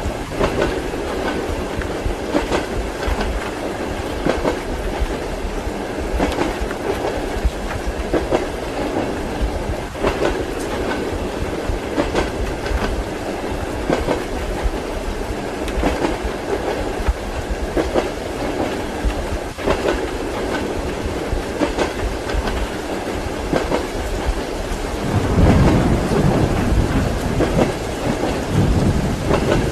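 Train wheels clacking over rail joints every second or two, over the steady rumbling noise of a moving railway carriage heard from inside the compartment. A deeper low rumble swells for a few seconds near the end.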